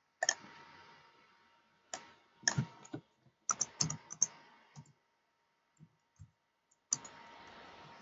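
Computer keyboard keys being typed in irregular strokes, with a quick run of several keys around the middle and a few softer single clicks later.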